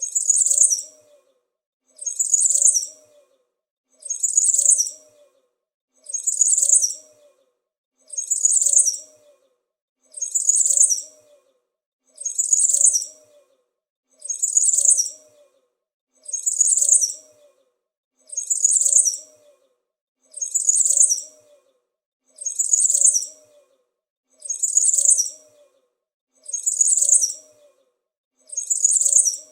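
Small bird chirping in short, high-pitched bursts of rapid notes, each burst about a second long. The same burst repeats evenly about every two seconds, with silence between.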